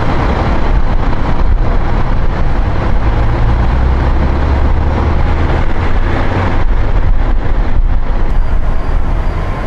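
Steady roadside highway traffic noise, vehicles running past on the interstate, with a low engine rumble that swells in the middle.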